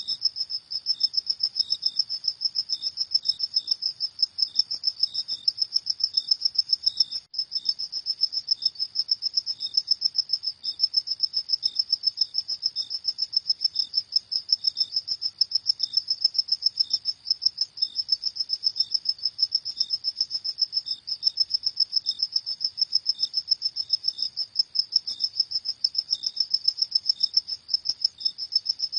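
Crickets chirping at night: a steady, high-pitched, rapidly pulsing trill that keeps up without a break.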